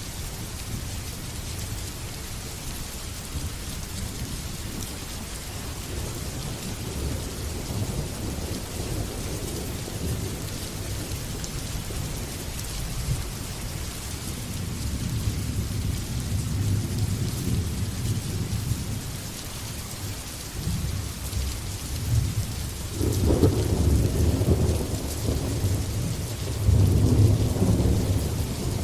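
Steady heavy rain hissing, with thunder rumbling low underneath; two louder rolls of thunder swell up in the last few seconds.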